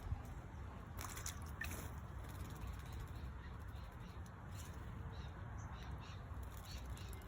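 Birds calling, a run of short repeated notes from about halfway through, over a low steady rumble.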